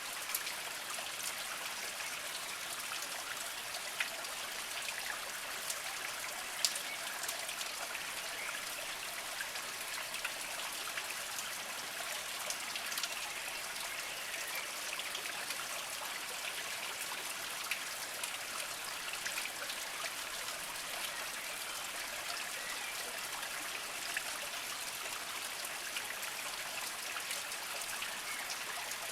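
Small spring trickling and splashing over mossy rocks: a steady, even water noise with scattered sharper drips.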